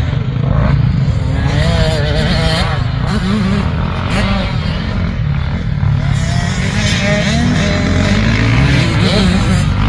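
85cc two-stroke motocross bikes riding the track, their engines revving up and dropping off again and again as they take the jumps and corners.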